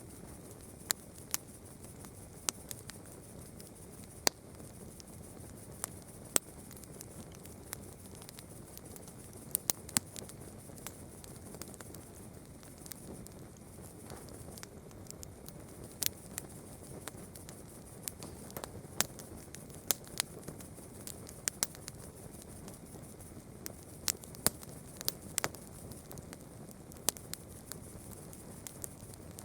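Campfire crackling: irregular sharp pops and snaps of burning wood, some much louder than others, over a steady soft hiss.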